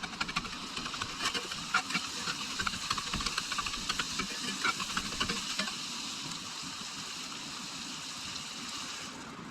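Food sizzling in a frying pan, with a utensil clicking and scraping against the pan over the first several seconds. After that the sizzle runs on steady and cuts off abruptly just before the end.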